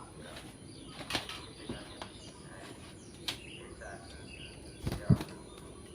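Lull in yellow-vented bulbul (trucukan) song: a few faint short chirps over light background noise, broken by several sharp clicks and a low thump about five seconds in, the loudest sound.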